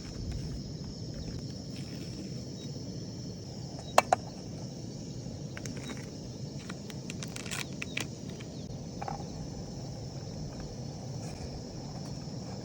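Steady high insect chirring over a low outdoor rumble, with a loud pair of sharp clicks about four seconds in and a few lighter clicks a couple of seconds later.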